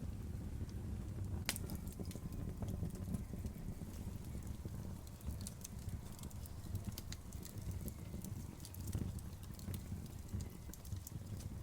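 Outdoor bonfire crackling: irregular sharp pops and snaps over a low steady rumble, with one louder pop about a second and a half in.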